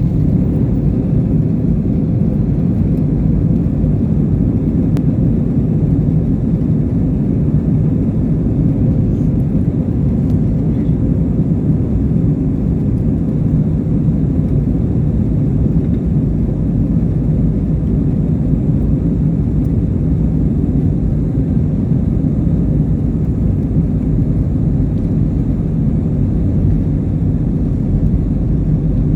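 Airplane in flight: a steady low rumble that holds an even level throughout.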